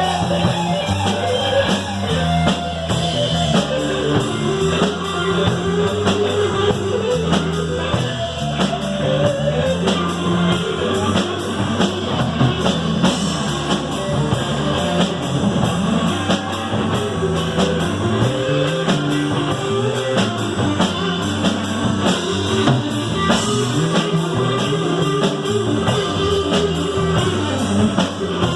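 A rock band playing live, an instrumental passage with electric guitar and a drum kit.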